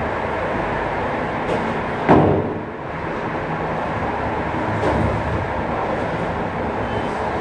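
Steady running noise of a vehicle in motion, with a brief louder sound about two seconds in.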